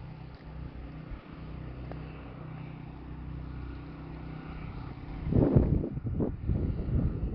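A vehicle engine runs steadily at low revs. From about five seconds in, loud, irregular low rumbling bursts come over it.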